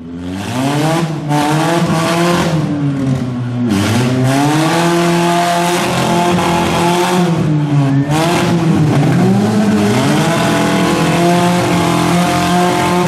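Four-cylinder demolition-derby car engines revving hard over and over, the pitch climbing and dropping back several times, over a dense rushing noise.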